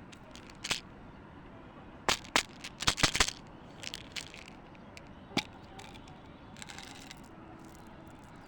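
Wood fire crackling: irregular sharp pops and snaps, a quick cluster of them about two to three seconds in, over a low steady hiss.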